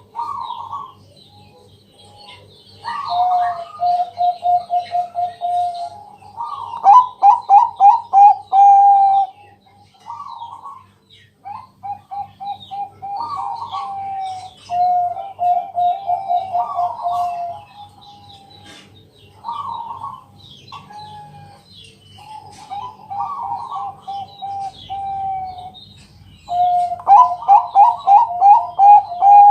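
Bangkok-type perkutut (zebra dove) cooing: about seven phrases of quick, evenly spaced rolling coo notes, each phrase rising then settling on a lower repeated note. Faint high chirping runs beneath.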